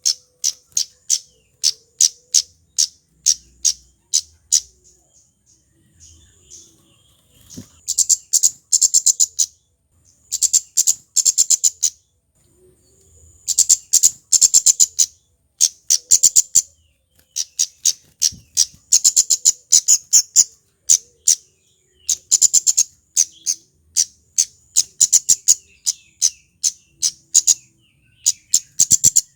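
Male flowerpecker (burung cabe-cabean, kemade) calling: sharp, high, very short notes repeated evenly about three times a second. After a brief lull the notes come in fast runs of a second or two, with short pauses between them.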